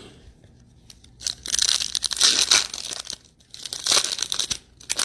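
A foil trading-card pack wrapper being torn open and crinkled, in two spells of rustling about a second apart.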